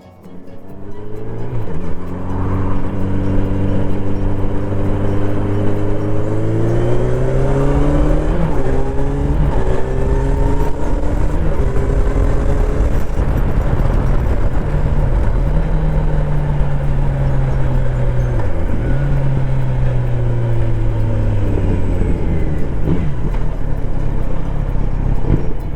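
Kawasaki Z900RS inline-four running through its full-system exhaust while being ridden. The revs climb steadily, dip briefly at several gear changes between about a third and three-quarters of the way in, then slowly fall as the throttle eases off.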